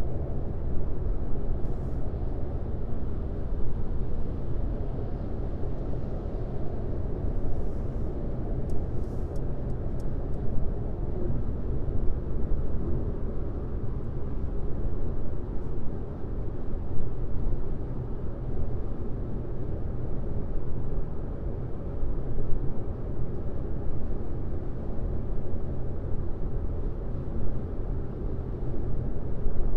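Car driving steadily on a highway: continuous low road and tyre noise with a steady hum, and a few faint ticks around eight to ten seconds in.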